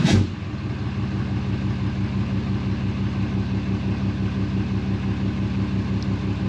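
A 2017 Ram 2500 pickup's engine settling into a steady idle just after being started, with an even low pulsing.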